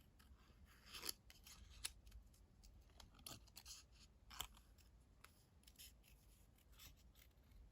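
Small scissors cutting out stamped paper leaves: faint, irregular snips spaced a second or so apart.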